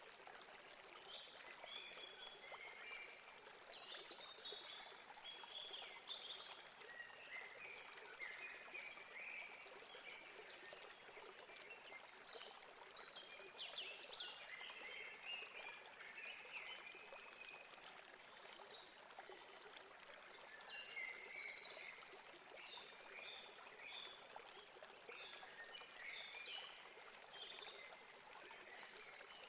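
Faint, steady rush of a river or stream, with many small birds chirping and trilling over it throughout.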